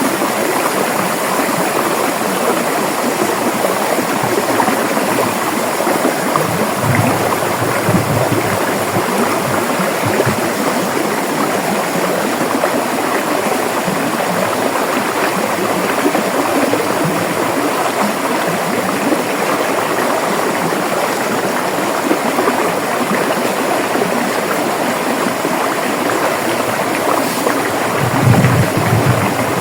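River water flowing and gurgling over rocks, a steady rushing with a few deeper surges, the loudest near the end.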